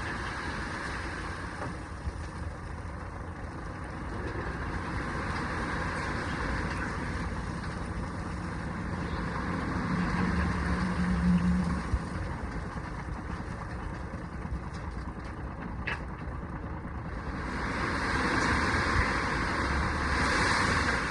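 International single-axle dump truck's engine running steadily while it dumps a load of gravel, with a short steady tone around the middle and a rising rushing noise near the end.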